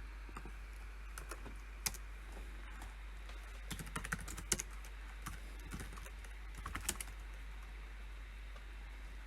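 Computer keyboard being typed on in short, irregular bursts of key clicks, with one louder keystroke about two seconds in and quick flurries around four and seven seconds, then a pause. A steady low hum runs underneath.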